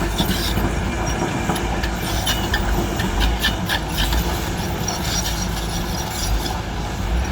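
Heavy diesel engine running hard under load, with repeated metallic rattles and clanks over its rumble.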